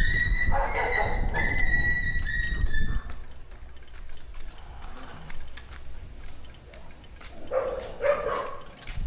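A dog whining in a string of thin, high whimpers for the first three seconds. Then quieter scattered clicks and taps follow, with a short lower call near the end.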